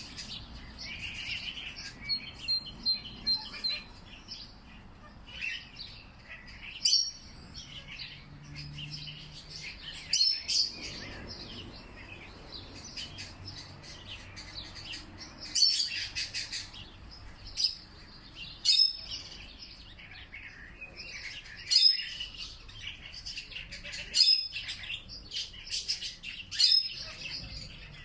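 Several songbirds chirping and calling, with short sharp chirps every second or two and a brief high trill a few seconds in.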